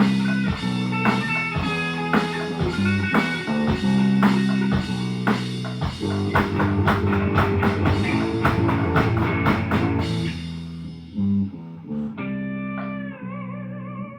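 Amateur rock jam in a living room: amplified guitar playing a riff of heavy sustained low notes with many sharp picked attacks. After about ten seconds it thins out to a few held notes, the last one bent with a wavering vibrato.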